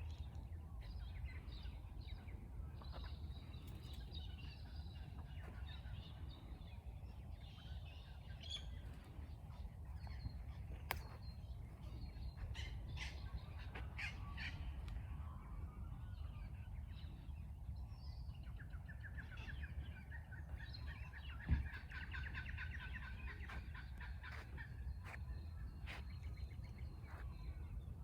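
Several wild birds calling and chirping at once, with a fast chattering run of repeated notes in the middle, over a steady low rumble.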